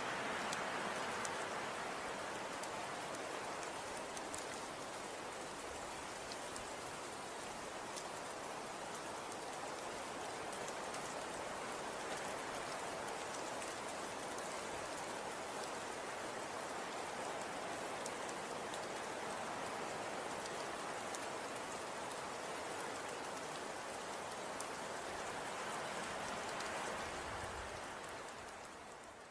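Falling snow pattering steadily on surfaces, an even hiss with many faint fine ticks, fading out near the end.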